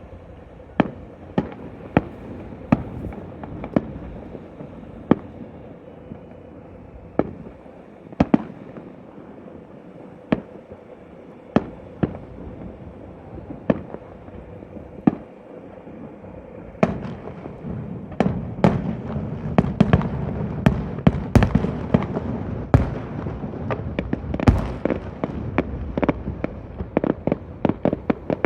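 Fireworks going off: sharp single bangs about once a second at first, then from about 17 seconds in a dense barrage of bangs over a continuous rumble and crackle.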